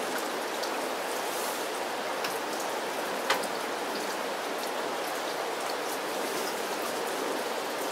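Steady rain falling, an even hiss with scattered small ticks of individual drops, one louder tick about three seconds in.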